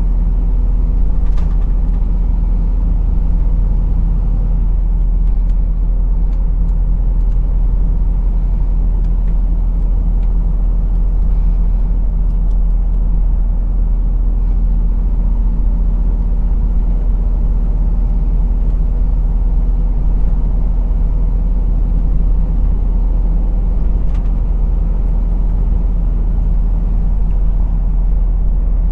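Heavy goods truck driving along at a steady pace, heard from the driver's cab: a continuous low engine drone mixed with road rumble, with no marked change in engine speed.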